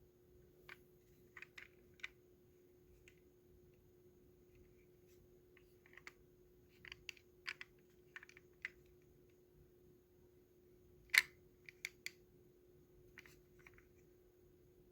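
Faint, irregular light clicks and taps over a steady low hum, with one sharper click a little past the middle.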